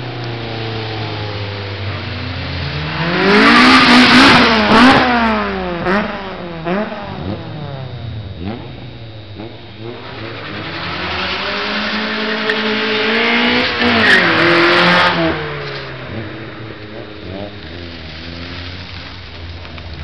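Cars accelerating hard in a street race, engines revving up through the gears as they pass. The engines surge loudly twice, about three to six seconds in and again around twelve to fifteen seconds, with lower engine noise between.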